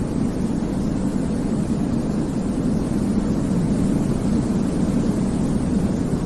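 Steady white-noise sleep sound, a deep, even rumbling hiss that stays the same throughout, with most of its weight low and little treble.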